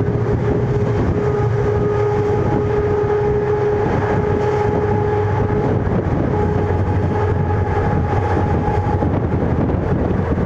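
Indian Railways ICF passenger coach running along the track: a steady, loud rumble of wheels on rail with a constant whine running through it.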